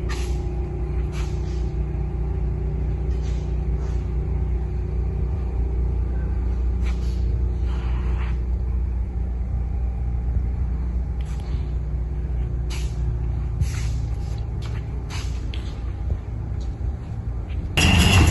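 A vehicle engine running steadily with a low rumble, with scattered short hisses and clicks over it. Music comes in just before the end.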